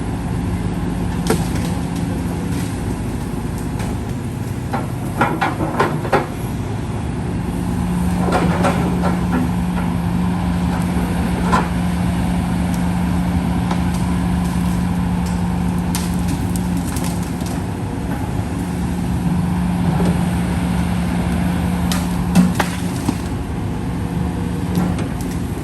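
Heavy diesel engine of an excavator dredging the canal, running steadily, with scattered metallic clanks and knocks.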